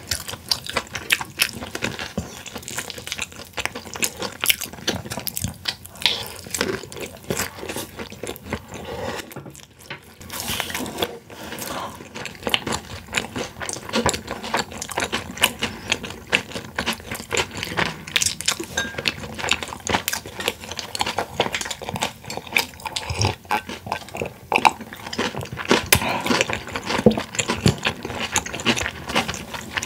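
Close-miked chewing of boneless fried chicken by two people: a dense run of irregular wet mouth clicks and smacks.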